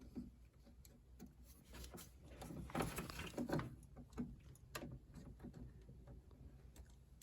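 Faint scattered clicks and rustles, busiest about three seconds in, from pliers working plastic clips off the water tubing at a refrigerator's water inlet valve.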